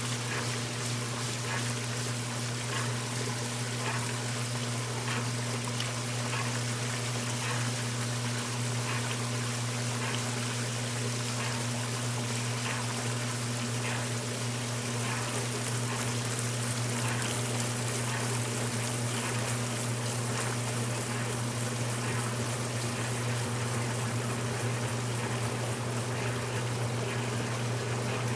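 1969 Westinghouse washing machine running mid-cycle: water trickling and splashing inside it over a steady electrical hum.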